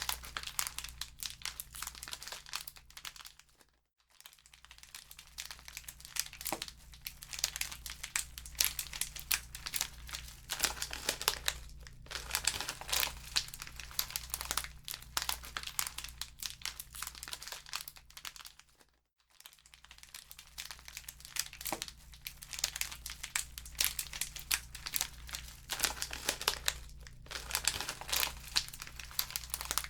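Wood fire in a fireplace crackling and popping in a dense, continuous stream of sharp snaps over a low steady rumble. It briefly fades almost to nothing twice, about four seconds in and again about nineteen seconds in.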